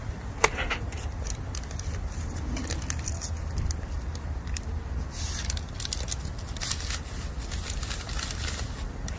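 Bamboo campfire crackling with irregular sharp pops, the loudest about half a second in, and short spells of hissing as moisture steams out of the burning bamboo, over a steady low rumble.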